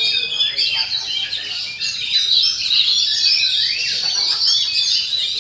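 Oriental magpie-robin (kacer) singing a fast, unbroken run of varied whistles and chirps.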